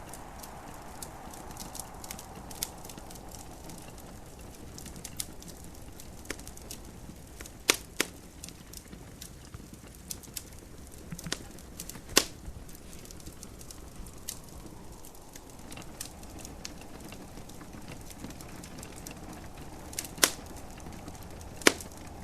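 Wood fire crackling in a fireplace: irregular small snaps and pops over a steady soft hiss, with a handful of louder pops, two of them close together about eight seconds in and two more near the end.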